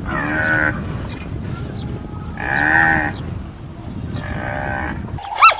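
Sheep bleating three times, each bleat a wavering call under a second long, spaced about two seconds apart. Just before the end the sound cuts abruptly to a different animal's quick, repeated high-pitched calls.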